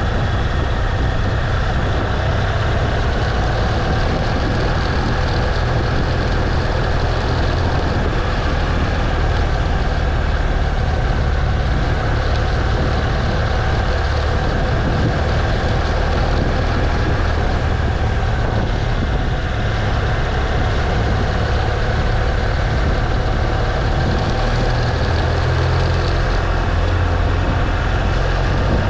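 BMW R1200 GS Adventure's boxer-twin engine running steadily as the motorbike rides at low speed, with a constant deep rumble under wind and road noise.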